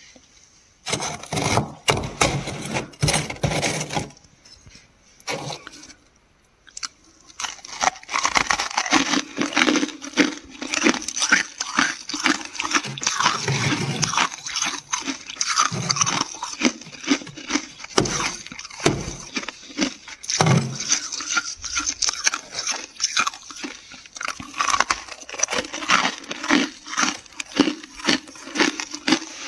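Frost being scraped off the inside of a freezer: a fast run of rough scraping strokes that breaks off for a few seconds, then carries on steadily.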